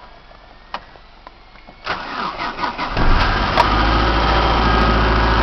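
1995 Saturn SL1's four-cylinder engine cold-starting at minus 14 degrees: after a few faint clicks it cranks over about two seconds in, catches about a second later and settles into steady running.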